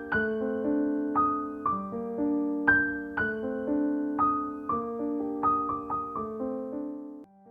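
Gentle, slow solo piano music: single notes and soft chords struck about twice a second and left to ring out, with a brief drop in level just before the end.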